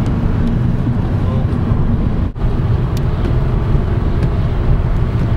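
Inside a moving car's cabin: steady low rumble of engine and tyre noise while driving, with a brief dropout a little over two seconds in.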